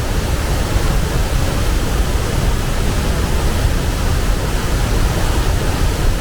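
Large waterfall: a loud, steady rush of falling water, without change or break.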